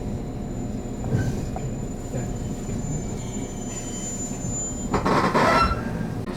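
JR Kyushu 813 series electric train running, heard from inside the passenger car: steady running noise with a thin high tone for the first few seconds, then a louder, harsher rush of wheel noise about five seconds in that lasts under a second.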